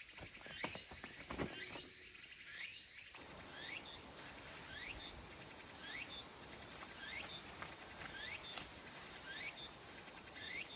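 A few clicks and knocks, then from about three seconds in an animal's high call repeated about once a second, each call a quick falling sweep.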